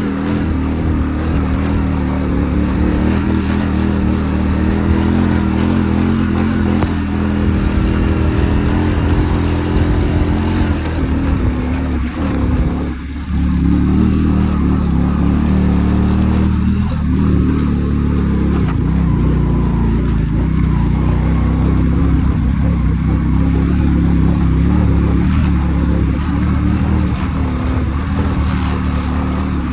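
Motorcycle engine running steadily under way, with a brief drop in throttle about thirteen seconds in before it picks up again.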